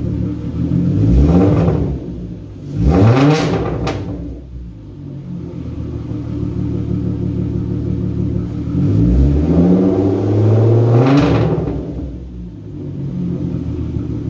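Car engine with a straight-piped exhaust and no muffler, idling and revved to about 2000 rpm: two quick blips in the first four seconds, then a longer rev held for about two seconds, each falling back to a steady idle.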